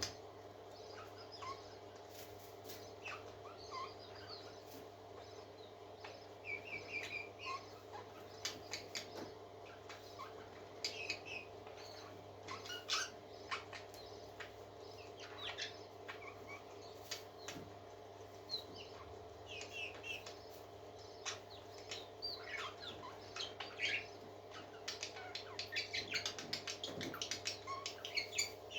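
Pet parakeets chirping and warbling in short, busy phrases, with frequent sharp clicks and rustles among them, over a steady low hum.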